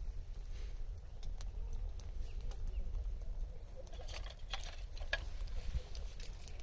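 Wood fire crackling, with scattered sharp pops coming more often in the second half, over a steady low rumble.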